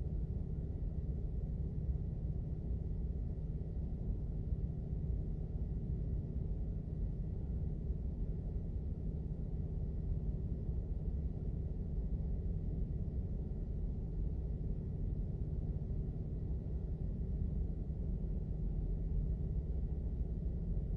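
Car engine idling, a steady low hum heard from inside the cabin of the parked car.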